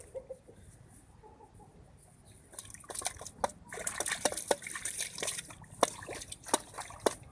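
Water splashing and dripping in quick, irregular splashes, starting about two and a half seconds in after a quiet stretch.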